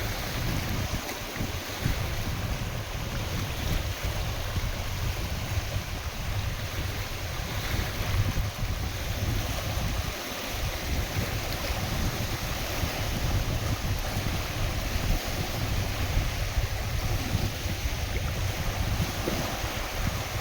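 Wind buffeting the microphone with a steady low rumble, over lake waves washing and splashing.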